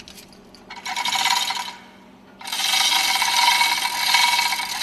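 Metal-on-metal rasping of hand tools on a MAN MC main engine fuel injection pump's lifting tool and top cover, in two spells: a short one about a second in and a longer one from about halfway on.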